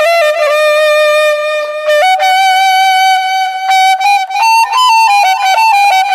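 Background music: a solo flute-like wind instrument playing a slow melody of long held notes that step up and down, with no accompaniment.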